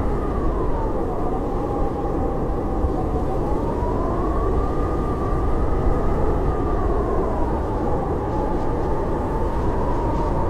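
Blizzard wind howling: a steady rush of wind with a whistling howl that slowly rises and falls in pitch.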